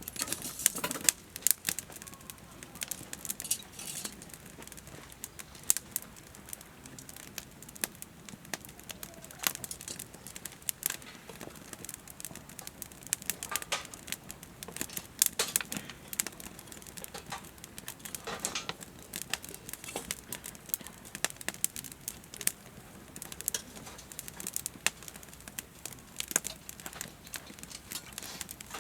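Campfire crackling: burning wood popping and snapping in irregular sharp clicks, with a few louder pops.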